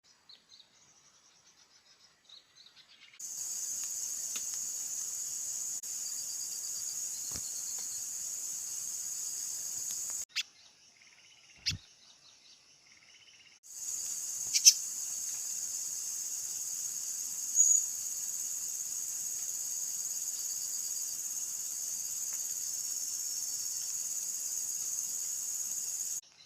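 Steady high-pitched insect drone in two long stretches that start and stop abruptly, with a few faint bird chirps and clicks in the quieter gaps.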